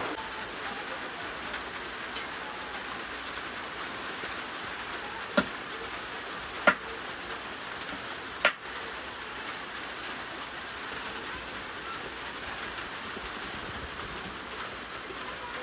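Steady rain, with three sharp knocks near the middle, each louder than the rain.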